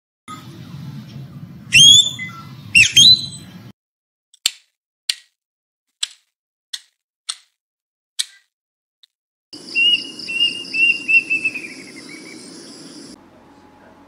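Two loud rising calls from a peacock, then a black woodpecker pecking at bark with seven single hard taps spaced a little over half a second apart. Then a quick series of bird notes falling in pitch, over a steady high hiss.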